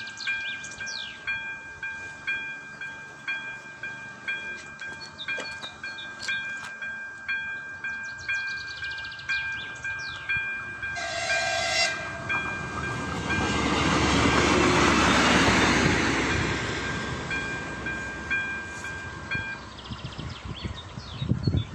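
Electronic railroad crossing bell ringing a steady, repeating high ding while a passenger train sounds a short horn blast and then passes through the crossing, its rumble rising to a peak and fading. The bell stops a few seconds after the train has gone by.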